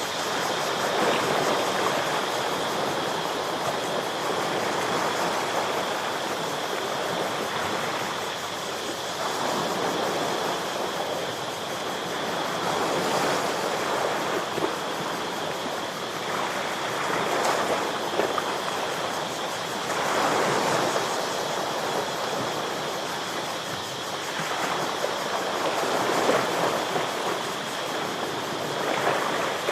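Ocean waves washing and breaking against shoreline rocks, the surf swelling and easing every few seconds, with a steady high tone above it.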